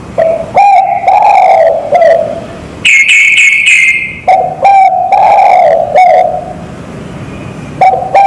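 Zebra dove and spotted dove cooing in turn: three long wavering coos, with a shorter, higher-pitched call between the first two.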